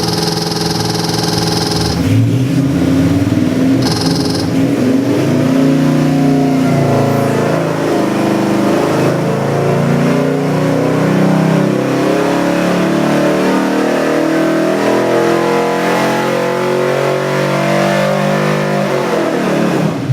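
Warmed-up 347 small-block Ford V8 with FiTech electronic fuel injection running steadily, then revved up and down over and over from about two seconds in, dropping back toward idle near the end.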